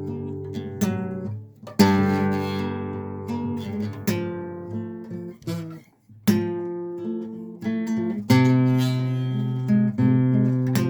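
Acoustic guitar played slowly: a chord strummed about every two seconds and left to ring out, with single plucked notes between the chords.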